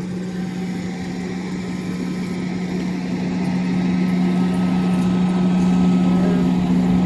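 A vehicle engine running steadily with a constant low hum, growing gradually louder.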